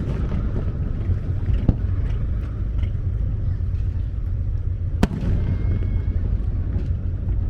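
Aerial fireworks shells bursting: two sharp bangs, about 1.7 seconds in and 5 seconds in, with a few faint crackles, over a steady low rumble.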